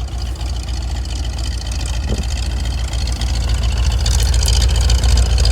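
International tree truck's engine running steadily at idle, with its PTO driving the hydraulics; the sound grows a little louder and hissier toward the end.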